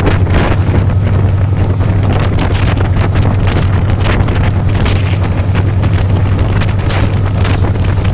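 Passenger train passing close at speed: a steady rushing rumble with irregular sharp clicks of the wheels over the rails, and wind buffeting the microphone.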